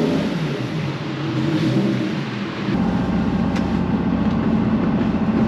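Nissan 350Z's V6 engine and exhaust under way, pitch rising and falling with the throttle. About two and a half seconds in it switches abruptly to a steadier, deeper engine drone.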